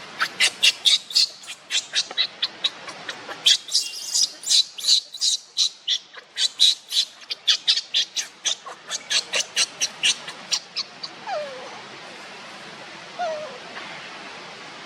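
Baby monkey squealing: a rapid run of short, high-pitched squeaks, about four a second, for the first ten seconds or so, followed by a few lower, falling cries.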